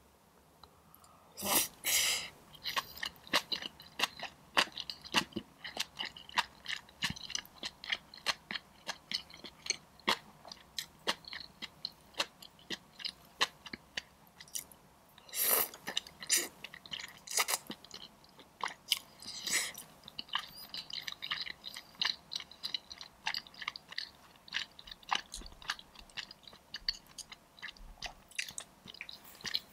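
Close-miked chewing of soft food, beef and noodles from a bowl of beef and tofu soup, with a steady run of rapid wet mouth clicks. There are a few louder mouth sounds shortly after the start and three more around the middle.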